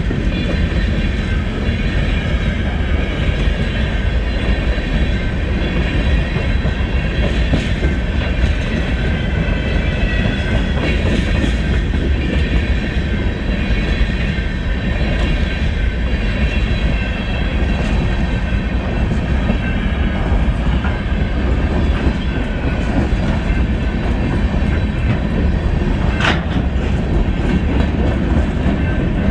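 BNSF freight train moving on the track: a steady, heavy rumble with faint high-pitched wheel-squeal tones over it, and one brief sharp squeal near the end.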